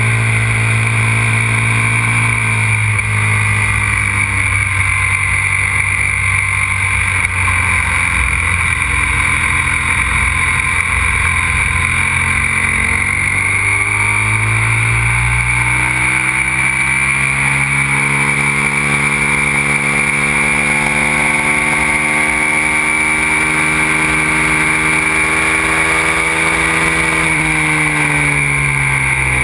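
Aprilia RXV 550 supermoto's V-twin engine running hard on a lap. Its pitch sags in the first seconds, then climbs steadily for about twelve seconds under throttle, and drops sharply near the end as the throttle is closed.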